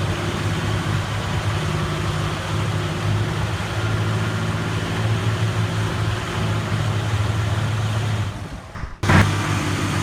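Large farm tractor's diesel engine running steadily. The sound dips and breaks off shortly before nine seconds in, then starts again.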